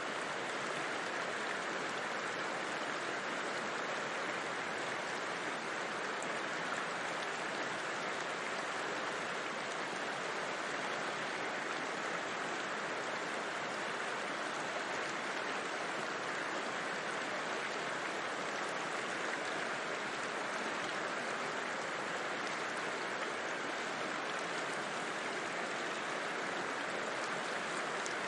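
A river flowing: a steady, even rush of water that never breaks or changes.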